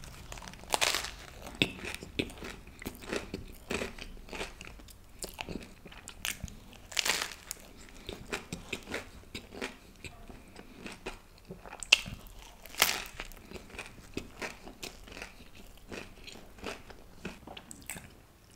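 Close-miked biting and chewing of a spinach and corn sandwich: a bite near the start, then continuous chewing full of irregular sharp clicks, with a few louder crunches around the middle.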